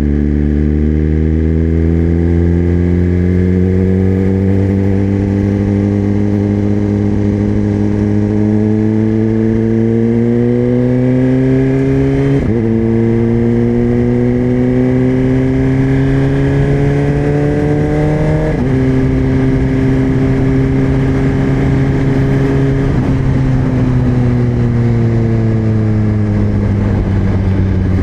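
2024 Suzuki GSX-R1000 inline-four with a LeoVince slip-on exhaust, riding and pulling steadily through the gears. The engine note climbs gradually, drops at two upshifts about twelve and eighteen seconds in, then holds steady and falls off as the bike slows near the end.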